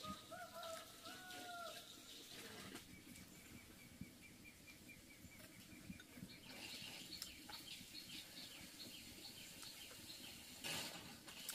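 Faint birds calling: two short pitched calls at the start, then a quick, even ticking trill, then a run of higher chirps.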